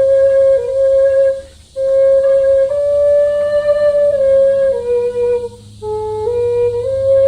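A flute playing a slow melody of long held notes that step up and down between a few close pitches, with two short breaks, about a second and a half in and again around five and a half seconds.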